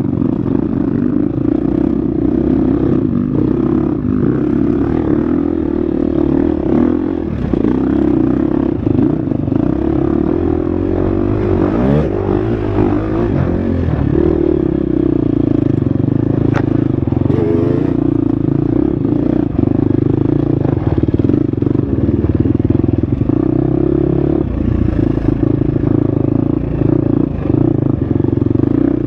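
Husqvarna FX 350 four-stroke single-cylinder dirt bike engine running under load on a trail, its pitch shifting with throttle and gear changes about twelve seconds in and again near the end, with scattered clattering knocks from the bike over rough ground.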